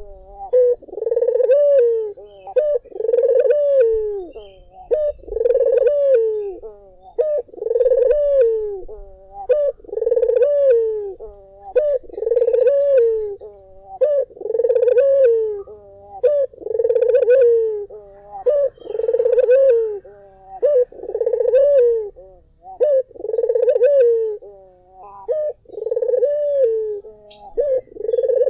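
Puter (Barbary dove) cooing over and over: one long, low coo about every two seconds, each bending up slightly and then falling away. Faint higher chirps sound behind it.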